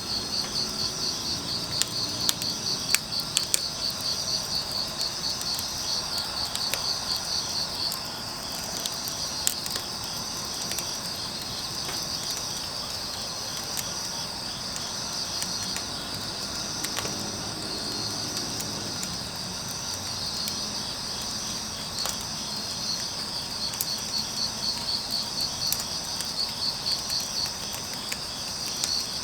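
Crickets chirping in a fast, pulsing trill, with a wood fire giving scattered sharp crackles, most of them in the first few seconds. The pulsing turns steadier through the middle and returns near the end.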